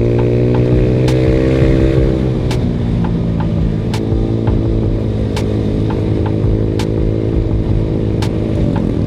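Yamaha Mio Sporty scooter's single-cylinder four-stroke engine running through a VND aftermarket exhaust while riding. Engine speed climbs a little over the first two seconds, then eases back and holds steady. A sharp tick sounds about every second and a half.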